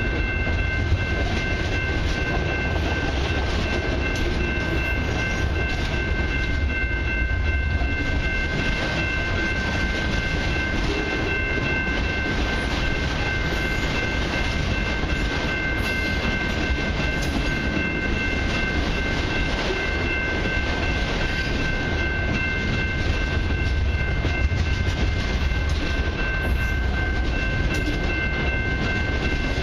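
Freight train cars, multilevel autoracks and then intermodal container well cars, rolling steadily past at close range with a continuous low rumble of wheels on rail. A thin, steady high whine rides above the rumble.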